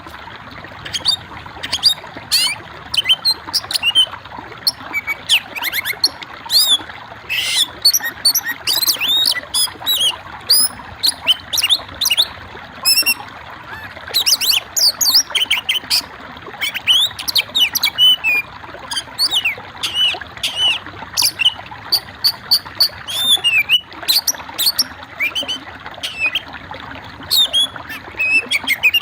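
Songbird singing a rapid, continuous string of high chirps, trills and whistles over a steady background hiss.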